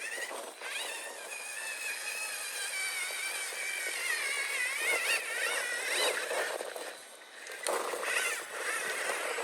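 Electric motor and gear drivetrain of a 1/10-scale RC rock racer whining under throttle, the pitch rising and falling as it drives over a slope. The whine drops away for a moment about seven seconds in, then picks up again.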